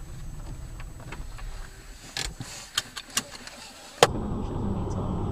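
Road and engine noise inside a moving car, with a few sharp clicks or knocks. About four seconds in, a sharp click comes and the noise jumps to a louder, fuller road rumble.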